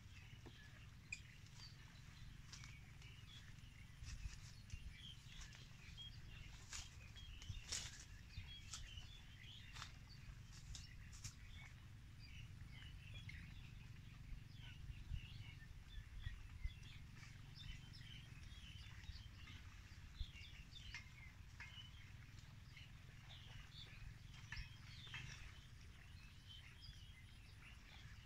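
Faint, scattered bird chirps over a steady low rumble, with a few sharp clicks now and then.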